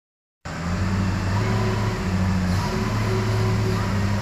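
A heavy engine running steadily with a low hum, coming in about half a second in.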